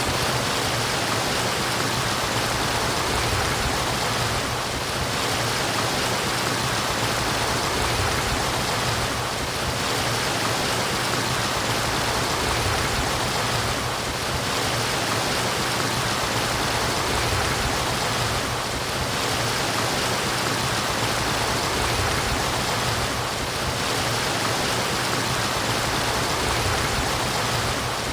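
Running water murmuring in a steady, continuous rush, like a brook. It eases off slightly about every four and a half seconds.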